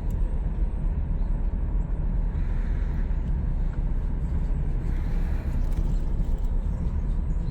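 Steady low rumble of a car driving: road and engine noise with no distinct events.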